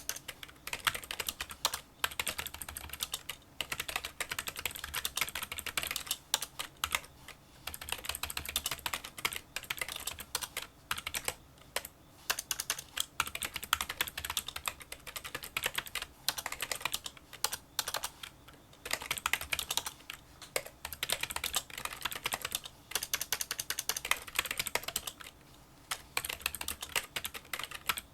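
Touch-typing on a Kinesis Freestyle Solo split keyboard with membrane key switches: dense runs of small, light key clicks, broken by short pauses every few seconds.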